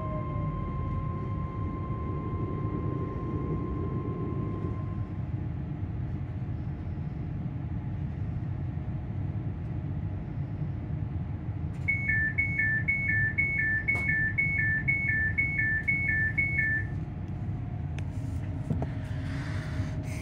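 Inside a ScotRail Class 385 electric multiple unit drawing to a halt: a steady low rumble, with the traction motors' whine stopping about five seconds in. Then about five seconds of rapid alternating high-low beeping from the door warning as the doors are released, and a brief rush of noise near the end.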